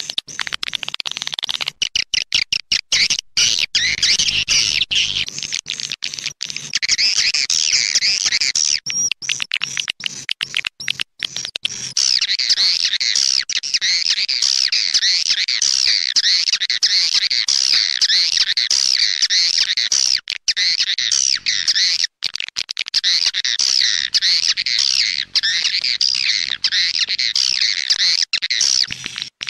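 Swiftlet call-sound recording: dense, high twittering chirps of many swiftlets, repeating rapidly without pause, as played to lure swiftlets into a nesting house. The chirping is broken by many brief, abrupt gaps and grows denser about twelve seconds in.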